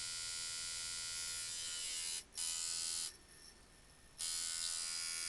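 Coil tattoo machine loaded with a 13 magnum needle, running at 5 volts with a steady buzz and a slow, long-throw hit suited to packing colour. It cuts out briefly a little over two seconds in, runs again, then stops for about a second before starting back up.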